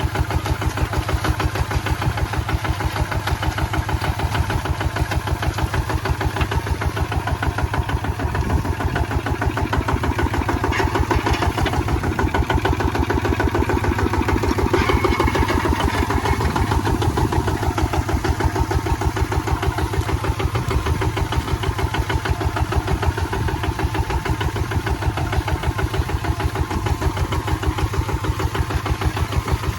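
Kubota ZT155 two-wheel tractor's single-cylinder diesel engine running steadily with an even, rapid chugging beat.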